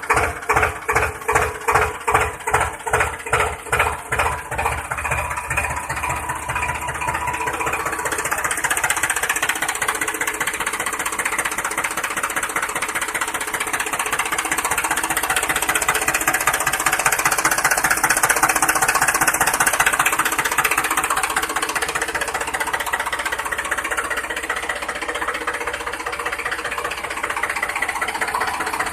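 Mini tractor engine chugging with an even beat of about three strokes a second, which over the first several seconds blends into a steady continuous running drone.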